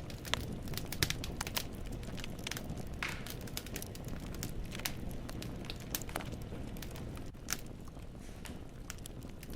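Wood fire burning in a fireplace: logs crackling with frequent irregular snaps and pops over a steady low rumble of the flames.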